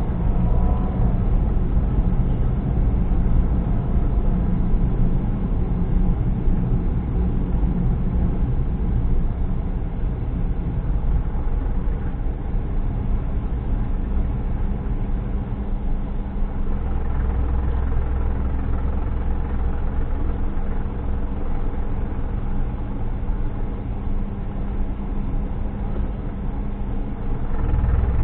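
Car engine and road noise heard from inside a moving car, a steady low rumble.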